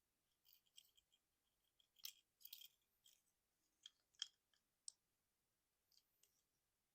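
Plastic parts and joints of a Transformers Trailcutter action figure clicking and rubbing as they are moved during transformation: faint, irregular small clicks, busiest about two seconds in and again around four to five seconds in.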